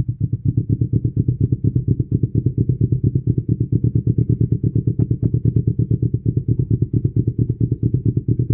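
Kawasaki Ninja 250 engine idling through a Yoshimura aftermarket exhaust with a steady, even pulsing beat, just settled from a rev.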